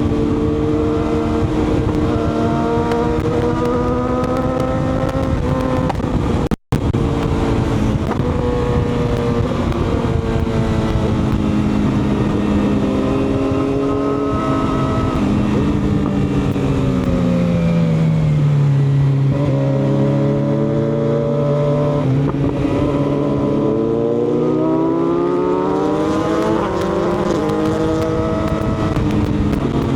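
Motorcycle engine running under way, its pitch holding, falling away for several seconds past the middle and then rising again as the revs come back up, with a brief cut about six and a half seconds in.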